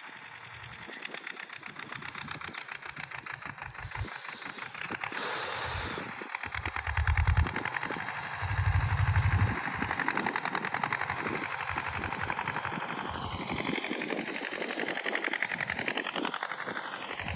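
Sonalika DI 30 tractor's diesel engine running steadily with a rapid, even knocking beat while pulling a cultivator. A few brief low rumbles come midway.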